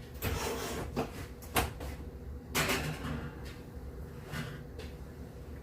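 Kitchen oven being loaded with a baking pan: two sliding, scraping sounds of the door and rack, with a couple of sharp knocks between them.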